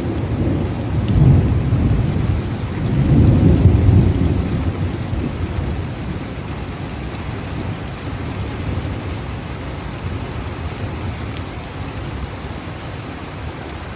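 Heavy rain falling steadily, with a low rumble of thunder swelling twice in the first few seconds and then dying away under the rain.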